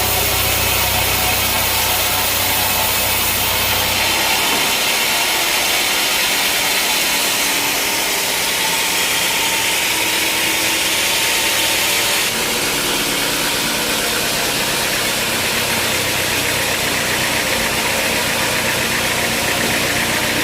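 Sawmill machinery running steadily with a loud hiss. A low hum drops out about four seconds in, and the sound shifts again at about twelve seconds.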